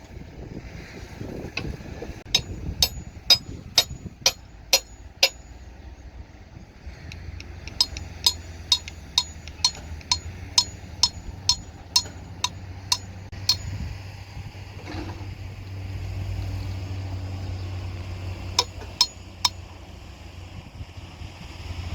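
Sharp ringing strikes, like a hammer on metal, about two a second, in three runs: about eight, then about a dozen, then three near the end. A steady low engine hum runs underneath.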